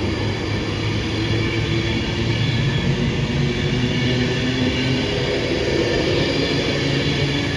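A train running close by: a steady, loud drone with low humming tones and some higher whine, unchanged throughout.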